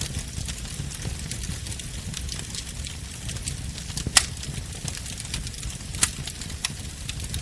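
Wood bonfire burning: a steady low rumble with frequent small crackles, and two louder sharp pops about four and six seconds in.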